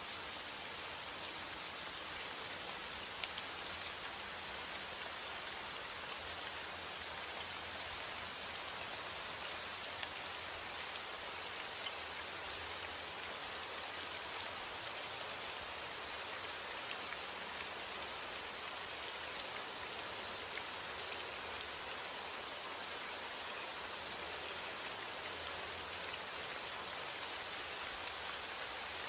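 Steady heavy rain: an even hiss of rainfall with many individual drops ticking on a surface.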